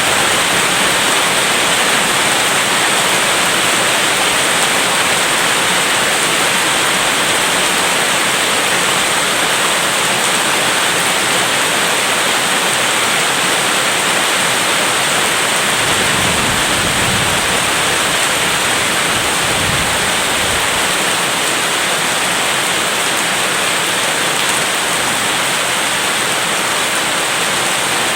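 Steady, loud rain. About halfway through, a low rumble of distant thunder swells for a few seconds and fades.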